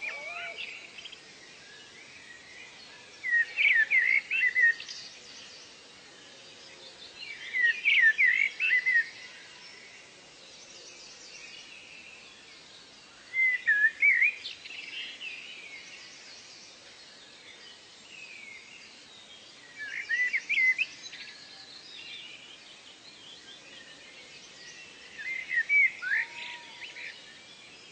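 Birdsong: one bird repeats a short phrase of quick, sweeping notes about every five seconds, six times in all. Fainter bird calls sound in between, over a steady soft hiss.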